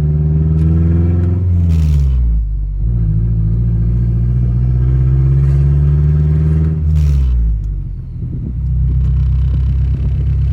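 Mazdaspeed6's turbocharged 2.3-litre four-cylinder running loud through an open downpipe, heard from inside the cabin as the car accelerates through the gears. The pitch climbs, drops sharply at an upshift about two seconds in, climbs again and drops at a second shift about seven seconds in, each shift with a short burst of noise, then settles into a lower, steady note.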